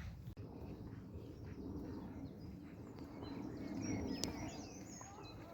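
Small birds chirping, with a run of quick high chirps in the second half, over a steady low rumbling noise.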